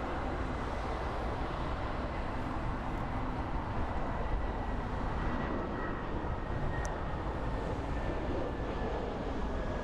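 Tunisair Airbus A320-214's CFM56 jet engines on landing approach: a steady, even roar, with a faint high whine that slowly drops in pitch.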